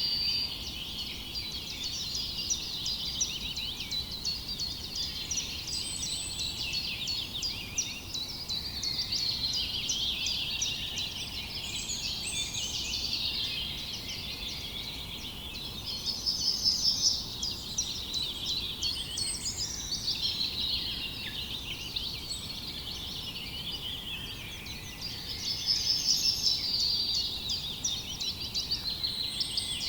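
A chorus of many small songbirds chirping and singing at once, the calls overlapping densely, with a loud rapid high trill recurring three times.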